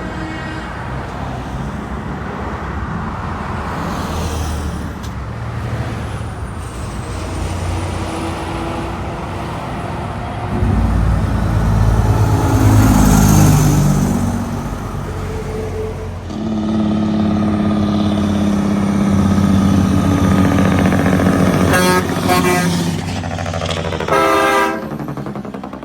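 Heavy trucks and traffic passing on a highway, with one loud truck pass about halfway through. In the second half a truck horn sounds, a long held note and then two short blasts near the end.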